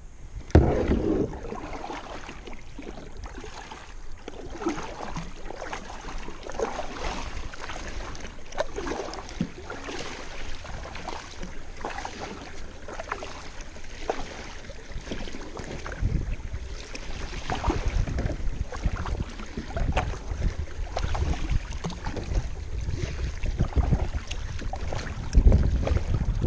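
Kayak paddle strokes dipping and splashing in the water, with water dripping and swishing between strokes. From about halfway through, wind buffets the microphone more strongly.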